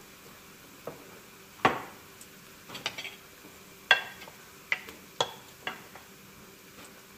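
Diced onion and garlic frying in a nonstick pan with a faint steady sizzle, over which dishes clink and knock sharply about eight times; the loudest clinks come about one and a half seconds in and near four seconds, the second with a short ring.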